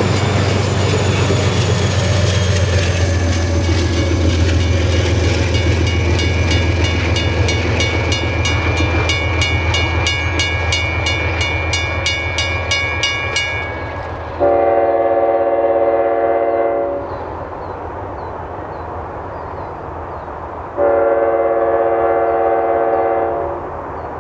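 Passenger train rumbling past a grade crossing, with the crossing bell ringing about four strokes a second until both die away about 14 seconds in. Then two long, loud train horn blasts, each about two and a half seconds.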